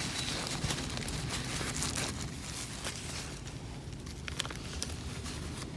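Wood campfire crackling with scattered small pops, over a steady low rumble.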